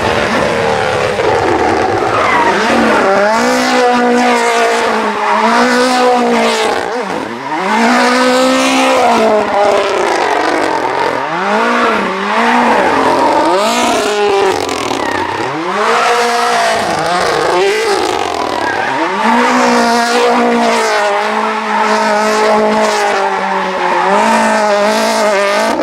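Prodrive Mini WRC rally car's turbocharged 1.6-litre four-cylinder engine revving hard while it spins donuts. The revs swing up and down over and over, about every one to two seconds, with tyres squealing underneath.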